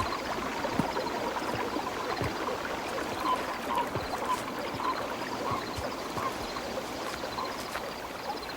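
Nature ambience of running water, with short animal calls repeating about twice a second over it.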